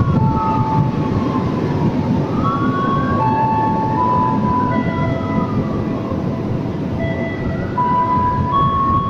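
Locomotive-hauled passenger train running through the station without stopping: a steady rumble of wheels on rail, with high squealing tones from the wheels that jump between pitches and slowly rise and fall.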